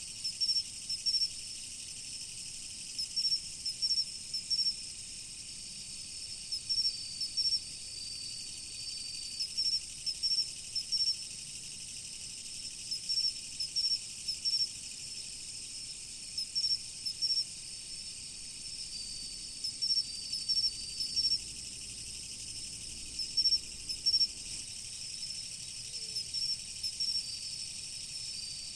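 Chorus of autumn crickets: a steady high ringing, with clusters of short, loud chirps every two to three seconds and a longer trill twice, about seven and nineteen seconds in.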